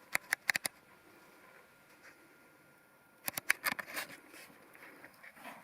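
Light clicks and clinks of the steel parts of a shop-made lathe backstop (threaded rod, cap and lock nut) being handled, in two short flurries: a few sharp clicks at the start and a quicker cluster about three seconds in.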